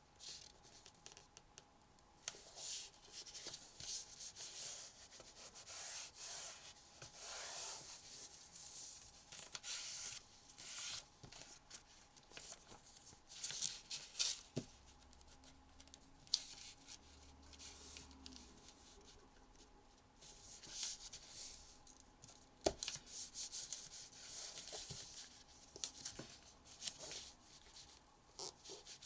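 Sheet of origami paper being folded and creased by hand: repeated short rustles and swishes of paper sliding and rubbing, with a few sharp crinkles and taps.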